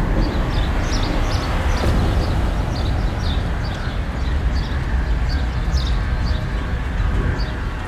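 Stormy outdoor ambience: a steady, loud low rumble of wind, with short high chirps repeating about twice a second through it.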